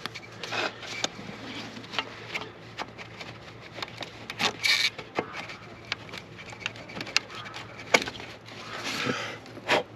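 Irregular clicks, knocks and short scrapes of hands and tools working a car's EGR valve and its hose fittings loose to pull the valve out of the engine bay.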